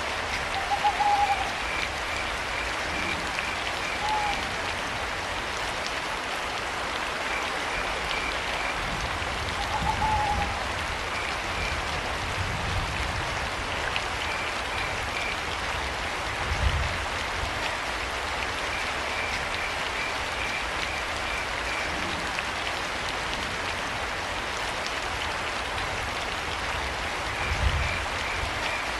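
Steady rain on a forest night, with crickets chirping in short pulsed trains every few seconds. A few short hooting calls, owl-like, come near the start and around ten seconds in, and low rumbles rise briefly about three times.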